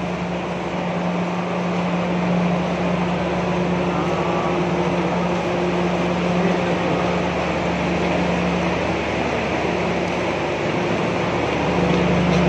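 Steady mechanical drone of a stopped passenger train's machinery: an even low hum that barely changes, over a wash of fan-like noise.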